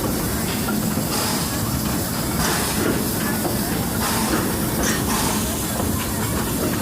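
Steam locomotive dressed as Thomas working nearby: a steady hiss of steam with slow exhaust chuffs about every second, over the rumble of the wagon rolling on the rails.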